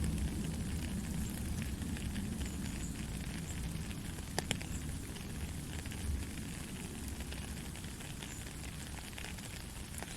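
Steady heavy rain with a low rumble underneath and scattered sharp drop ticks, one crisper tick a little before halfway. It eases slightly toward the end.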